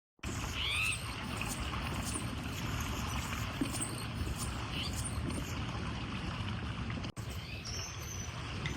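Steady waterside outdoor ambience, an even wash of water-like noise, with a couple of brief bird chirps. It drops out for an instant at a cut about seven seconds in.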